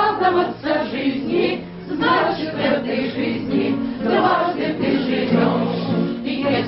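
A group of voices singing a song together in a choir-like blend, with no break.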